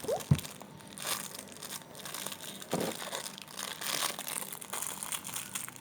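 Plastic toy packaging crinkling and crushing in the hands as a surprise toy is unwrapped, with a few tearing sounds.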